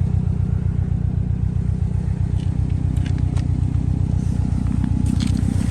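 2011 Subaru WRX STI's turbocharged flat-four idling steadily through an aftermarket Tomei Expreme exhaust, a low even pulsing note, with a few faint clicks in the middle.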